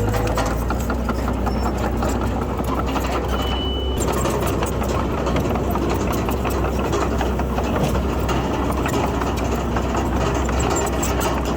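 Diesel engine of heavy earthmoving machinery running steadily, with a brief high tone about three and a half seconds in.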